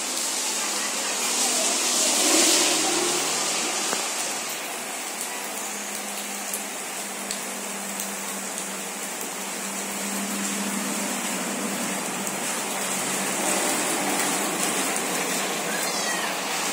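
Heavy rain falling steadily on a street and roofs, swelling louder about two seconds in. A few brief high calls come near the end.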